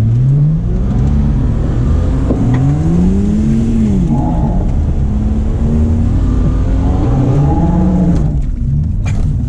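Holden VS Commodore engine revving up and falling back several times as the car is driven, heard from inside the cabin.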